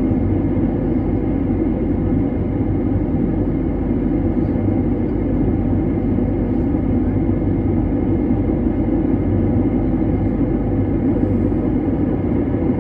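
Steady low rumble of an airplane's engines and airflow, unchanging throughout, with a few faint steady tones on top.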